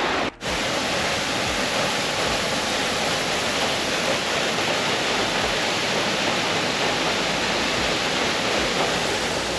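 Steady, even rush of a waterfall and its stream, heard close by, with a momentary dropout just after the start.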